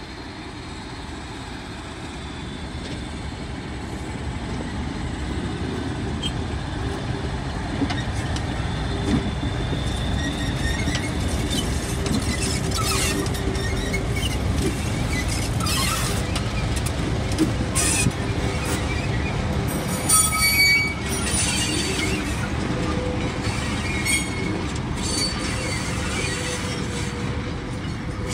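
Two DG class diesel-electric locomotives hauling a goods train draw near and pass close by, their engines running and growing louder over the first several seconds. The wagons then roll past with a steady rumble, high wheel squeals and repeated clanks and clicks from the wheels and couplings.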